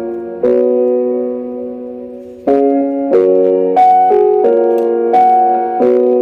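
Piano playing slow chords, each struck and left to ring before the next, in an instrumental break between the sung lines of a ballad.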